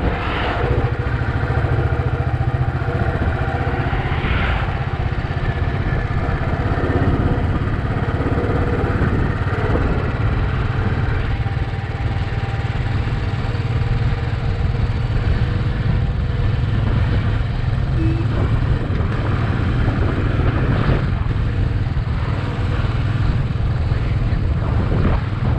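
Royal Enfield Bullet 350's single-cylinder engine running steadily, a continuous low engine sound with no break.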